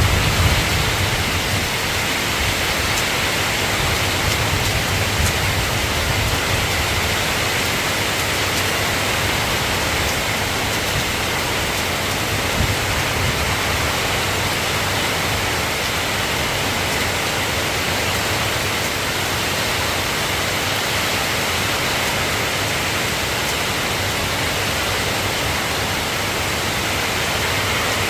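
Steady rain falling, an even hiss, with a low rumble of thunder dying away over the first few seconds.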